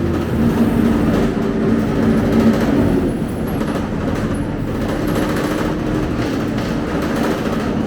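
Scania K270UB city bus running on its five-cylinder diesel engine while moving, the engine note shifting in pitch a few times over steady road and body noise.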